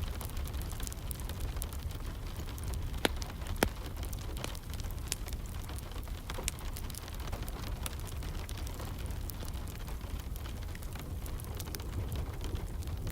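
Wood fire crackling with scattered sharp pops, two louder ones about three seconds in, over steady rain.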